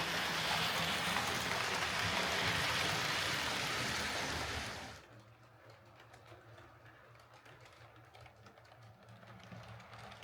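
Hornby R2286 Class A4 OO gauge model steam locomotive running on the track after a pickup repair: motor and wheels on rail give a loud, even whirr that drops sharply about five seconds in to a faint whirr with light clicking.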